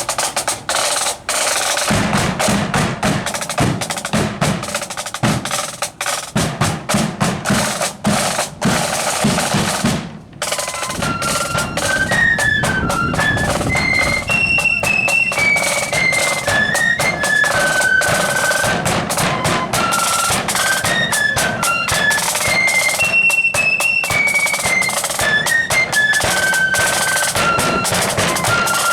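Marching flute band: snare drum rolls and bass drum play alone for about ten seconds, then after a brief break the flutes strike up a tune over the drums.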